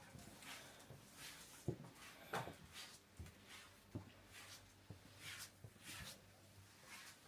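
Faint, irregular soft knocks and brushing swishes of movement and handling in a small room, about one knock a second.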